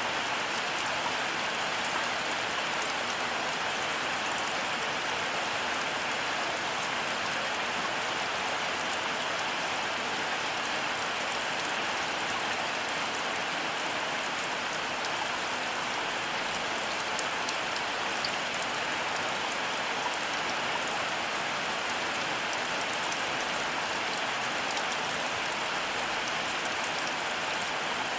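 Heavy rain falling steadily: a dense, even hiss flecked with the fine ticks of single drops, with no thunder.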